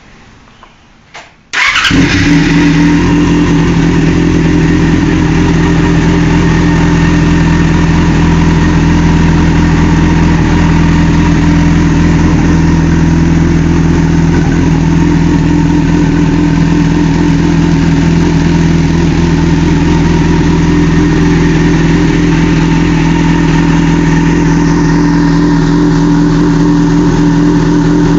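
A 2005 Yamaha FZ6's 600 cc inline-four is started about a second and a half in, through a Leo Vince SBK2 Evolution exhaust with its baffles installed, and settles into a loud, steady idle.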